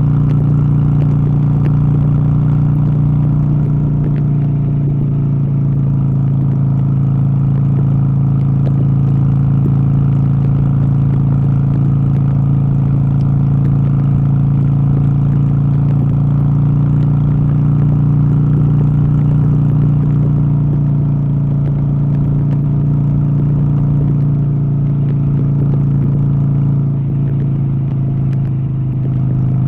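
A steady, even motor or engine hum at one constant pitch, dipping slightly in level near the end.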